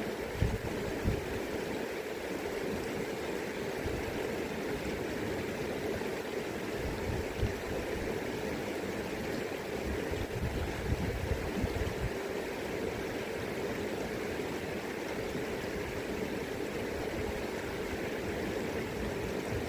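River water rushing steadily over its bed, with gusts of wind now and then adding brief low rumbles.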